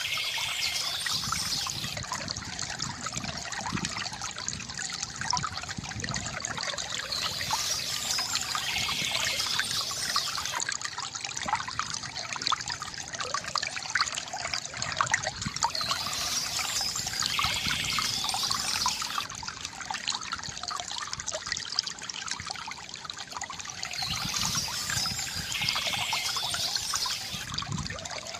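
Water from a bamboo fountain spout trickling and splashing steadily into a basin. A higher chirping sound, likely a bird, comes back about every eight to nine seconds.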